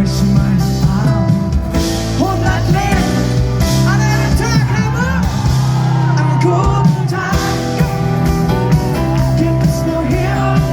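Live pop song performance: a male lead voice singing over a band, heard in a concert recording.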